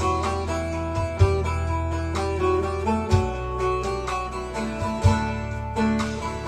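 Bağlama (Turkish long-necked saz) playing a plucked melody over a backing of sustained low bass, with a low thump about every two seconds.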